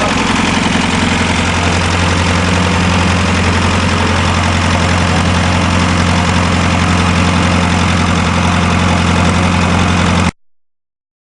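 Diesel engine of a mini tractor puller idling steadily, a loud even drone, which cuts off abruptly about ten seconds in.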